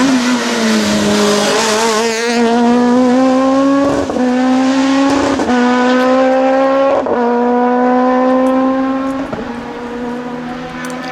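Suzuki Swift S1600 rally car's 1.6-litre four-cylinder engine at high revs. The note drops briefly at first, then the car accelerates hard up through the gears, with four quick sequential-gearbox upshifts, each a short break in the note. The sound grows fainter after the last shift near the end.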